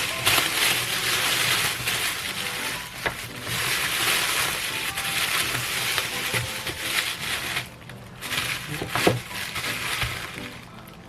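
Plastic takeout bag crinkling and rustling as it is handled, with a few sharp clicks.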